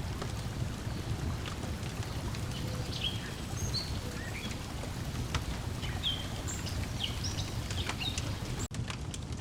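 Wood fire crackling with scattered sharp pops over steady lapping water, with small birds chirping in short calls now and then. There is a momentary gap in the sound near the end.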